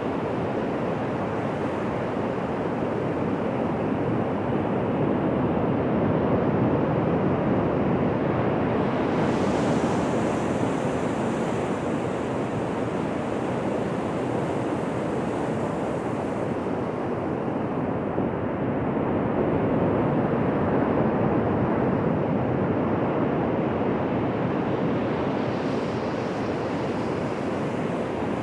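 Ocean surf breaking and washing on a beach: a continuous rushing that swells and eases twice as waves come in.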